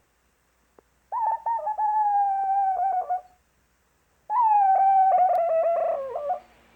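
Puppy whining in two long, quavering calls, the second sliding down in pitch at its end. It is the kind of whine a puppy makes when she has lost her ball.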